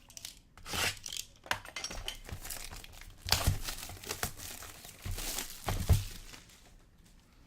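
Plastic wrapping and card-pack wrappers of a Donruss soccer card box being torn open and crinkled, with a couple of soft knocks.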